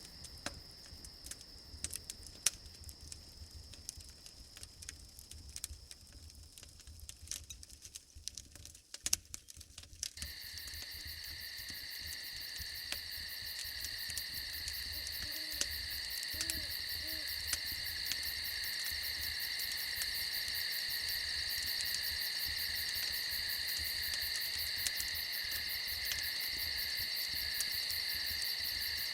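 Campfire crackling over a faint high insect tone; about a third of the way in, a loud chorus of crickets starts up with a fast pulsing trill and builds, while the fire's crackle goes on beneath it.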